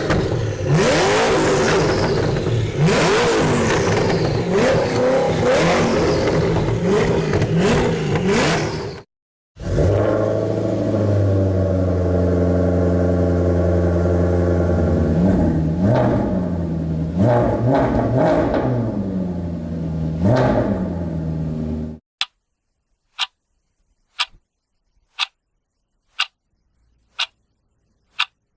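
Car engine revving hard, cutting off about nine seconds in; then a car engine running with a few short rev blips, which stops about 22 seconds in. A clock ticking about once a second follows to the end.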